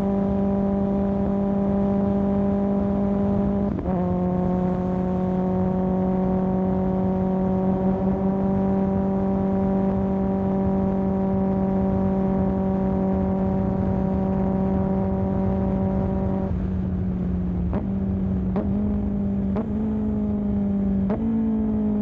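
Kawasaki ZX10R inline-four running through an aftermarket M4 exhaust, heard riding at a steady speed with a steady engine note. Near the end there are several quick gear changes, each a sharp click followed by a step up in engine pitch, and then the note falls away as the bike slows.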